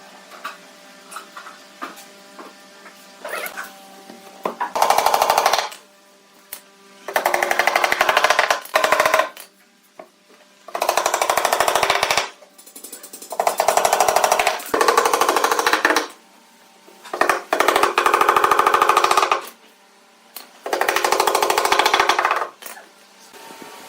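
Handheld power tool run in six short bursts of about one to two seconds each, with a rapid hammering rattle and pauses in between, typical of an impact driver driving screws into wood. Light tapping and handling ticks come before the first burst.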